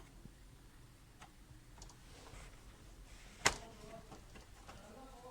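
Faint clicks and taps from handling an opened laptop's plastic case and parts, with one sharp knock about three and a half seconds in.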